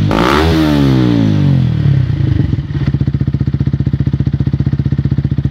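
Motorcycle engine revved once near the start, rising quickly and falling back, then settling into a steady, lumpy idle.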